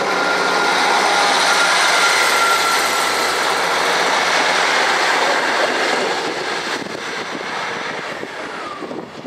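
A train passing at speed: loud, even wheel-and-rail noise for about six seconds, then fading as it draws away.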